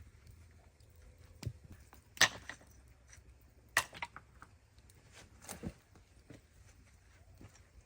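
A few separate sharp knocks and clicks, the loudest about two seconds in, over a faint low hum.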